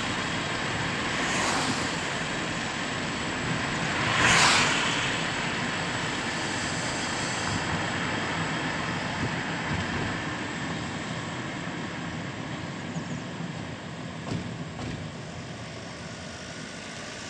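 Regional train of an E464 electric locomotive and Vivalto double-deck coaches rolling along the track, its steady wheel-and-rail noise slowly fading. A brief louder rush of noise comes about four seconds in.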